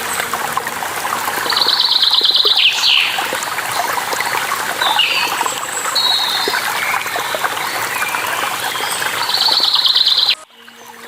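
Running water with birds calling over it: a rapid trill about a second and a half in and again near the end, with short sliding notes in between. The whole sound drops off abruptly just before the end, then swells back.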